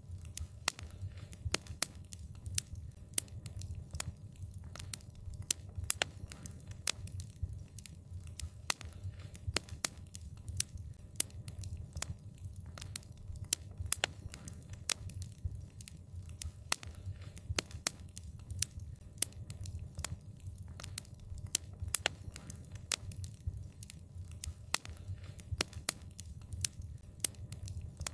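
Wood fire crackling: irregular sharp pops and snaps, several a second, over a low steady rumble of the burning fire.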